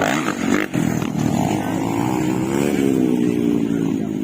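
Motocross dirt bike engines running, one rising in pitch and then falling away as it revs, about two and a half seconds in.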